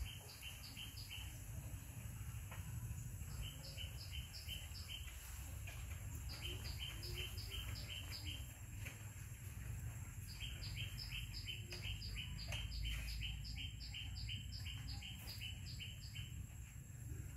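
A bird calling in rapid runs of short, high chirps, about four or five a second. The runs come four times, each a second to five seconds long, with pauses between them, over a steady low outdoor rumble.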